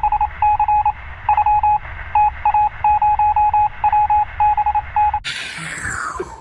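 Electronic radio-signal beeping: a single steady tone keyed on and off in short, unevenly spaced beeps, like Morse code, over a thin radio hiss. It cuts off suddenly about five seconds in.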